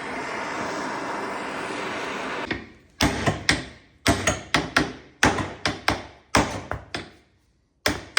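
A steady hiss that stops about two and a half seconds in, then about a dozen sharp metal-on-metal hammer blows, roughly two a second, each with a short ring. The blows are hammering a heated rubber bush out of a BMW E36 rear subframe.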